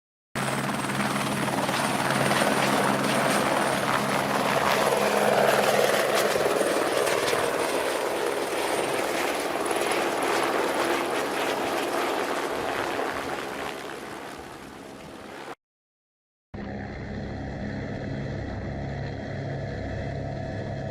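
Helicopter flying close by: loud rotor and turbine noise that swells and then fades away about fourteen seconds in. After a brief silent cut, a lower, steady engine drone.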